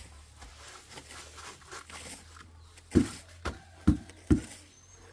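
Four dull, heavy thumps in quick succession starting about three seconds in, over a faint steady low hum.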